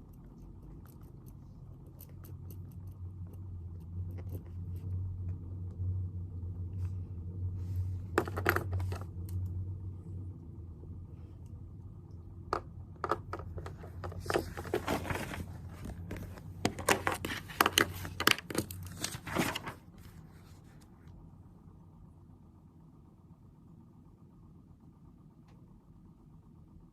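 Rustling, crinkling and clicking of paper and small objects handled on a desk, in a short burst about a third of the way in and a busier stretch in the middle. Under it is a low rumble that swells and fades over the first half.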